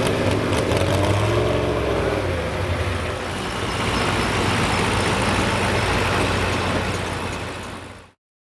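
Modified 4x4 pulling truck's engine running loud, its pitch rising and falling in the first two seconds, then a steadier noisy rumble; the sound cuts off suddenly near the end.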